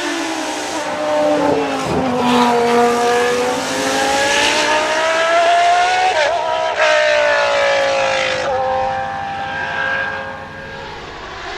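Historic Formula One car engine revving hard as it passes, its pitch climbing for several seconds, breaking sharply about six and a half seconds in, then sliding down and dropping away near the end.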